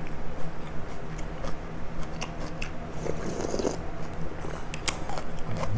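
Close-miked eating of pho: chewing and biting noodles, meat and fresh herbs, with scattered small clicks and mouth noises, over a low steady hum.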